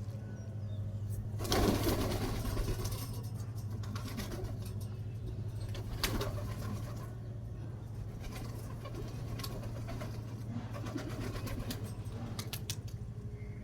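Pigeons cooing, loudest about a second and a half in, over a steady low hum, with scattered short clicks and rustles.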